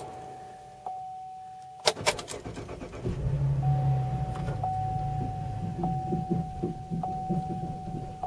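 Chevrolet Camaro engine started: a few sharp clicks about two seconds in, then the engine catches a second later and runs rough and uneven at a fast idle. A steady warning chime sounds before the start and over the running engine.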